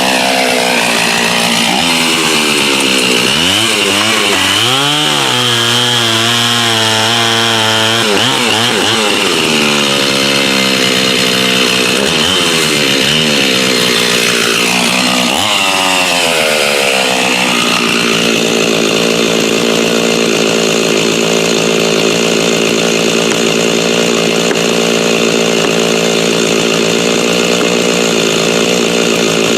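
Old gas chainsaw running and cutting wood. Its engine pitch drops and rises several times under load, then holds steady for the last ten seconds or so.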